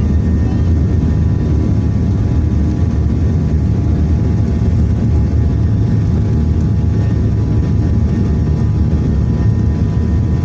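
Boeing 737-800's CFM56 jet engines and airflow producing a steady low rumble with faint constant whine tones above it, holding an even level throughout.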